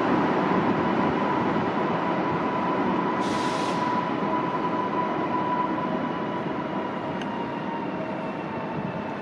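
Train running past along the station platform, a rumble of wheels with a steady high whine that slowly fades as it moves away, and a brief hiss about three seconds in.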